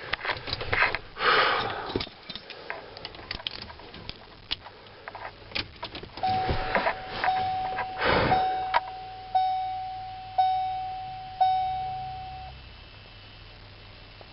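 Keys jangling and clicks of handling in a truck cab, then the dashboard warning chime of a 1989 Ford F-250 ringing about once a second, six times, with the key switched on ahead of a diesel cold start.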